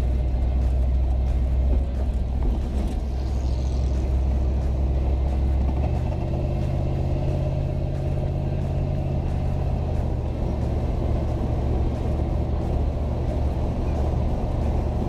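Pickup truck's 350 small-block V8 running while driving, a steady low drone with road noise. Its pitch steps up about six seconds in and shifts again around ten seconds in.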